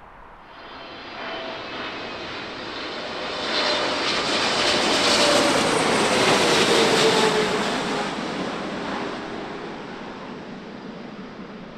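Airliner flying past close by: its engine noise swells to a peak about halfway through and then fades, with a whine that falls in pitch as it goes by.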